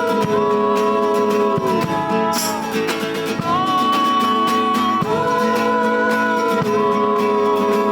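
Instrumental passage of a song led by acoustic guitar, with held chords changing about every second and a half.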